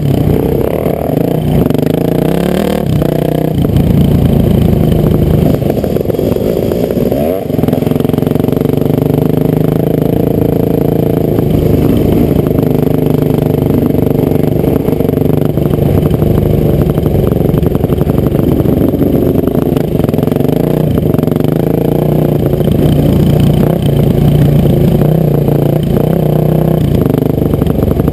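Honda CR500 two-stroke motocross engine running loud and close, its revs rising and falling a few times in the first eight seconds, then held fairly steady.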